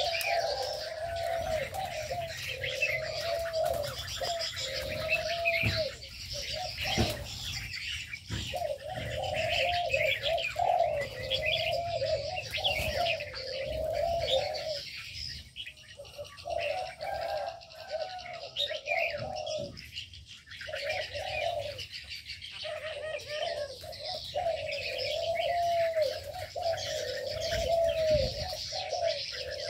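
Doves cooing over and over in low, arched notes, with many small aviary birds chirping and twittering at once above them.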